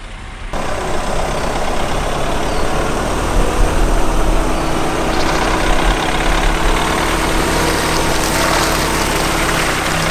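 A vehicle engine running steadily at idle, beginning abruptly about half a second in.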